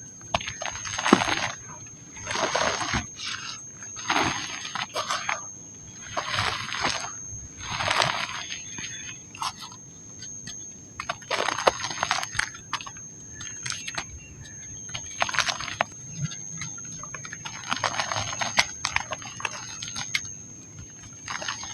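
Dry pink mud crumbling and crunching in repeated bursts, about one every one to two seconds, with small crackles and grains falling between them. A faint steady high whine sits underneath.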